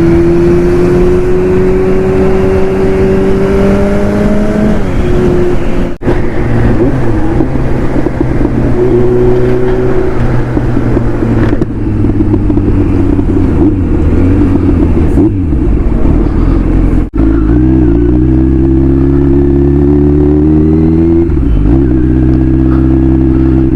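Kawasaki Z900's inline-four engine with an aftermarket exhaust and K&N performance air filter, running loud under load on the move. Its pitch climbs slowly, then breaks and drops briefly several times, as at gear changes, before climbing again.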